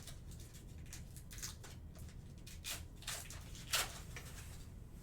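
Baseball trading cards being handled and slid past one another: a series of brief rustling, swishing strokes, the clearest one a little under four seconds in.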